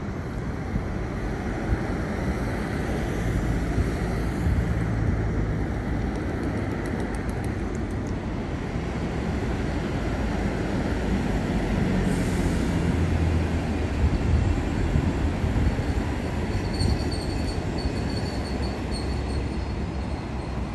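Train running on the line with a steady low rumble, and a faint high-pitched wheel squeal coming in during the last few seconds.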